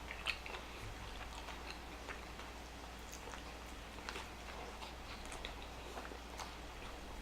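Close-miked chewing of a Whopper burger: sparse, faint mouth clicks and smacks.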